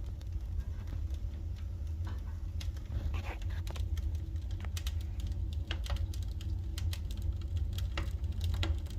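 Firewood burning in a fireplace stove's firebox, crackling with irregular sharp pops over a steady low rumble.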